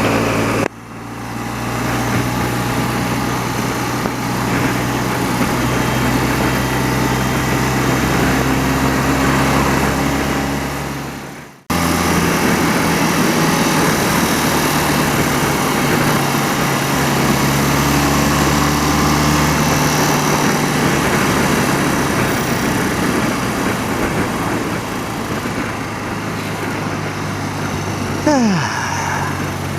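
Thirty-year-old BMW motorcycle engine running steadily at cruising speed, with rushing noise over it. The sound dips abruptly under a second in and cuts out for an instant about twelve seconds in before resuming; near the end a short falling whine passes.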